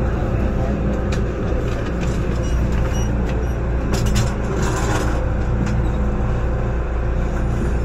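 MTR M-train heard from inside the carriage while running, a steady rumble with faint motor tones; a short clack comes about four seconds in.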